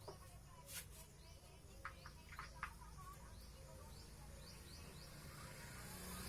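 Faint bird chirps, short and repeated, over a low background hum, with a few light clicks about two seconds in.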